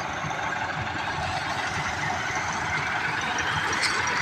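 Massey Ferguson 385 tractor's diesel engine running steadily with a low, even beat, growing a little louder near the end.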